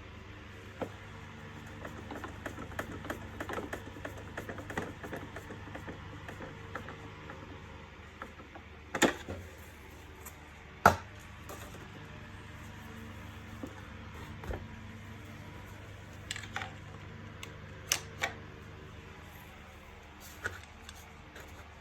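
Plastic parts of an Electrolux Ease C4 bagless vacuum cleaner clicking and knocking as they are fitted together by hand: a run of small clicks in the first few seconds, two sharp knocks around the middle, and a few more clicks later, over a steady low hum.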